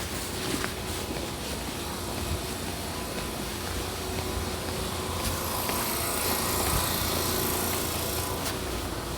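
Seibu New 2000 series electric train standing at its terminus platform: a steady low hum from the idling car, with a hiss that rises about five seconds in and fades near the end.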